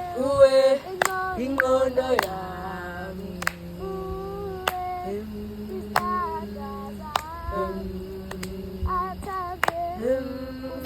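Singing: a high voice carries a melody over held steady notes, with sharp clicks coming about once a second.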